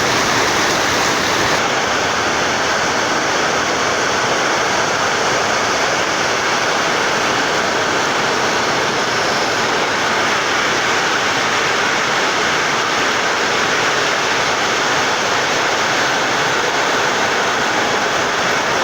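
Heavy rain falling, a loud, steady, even hiss of downpour with no letup.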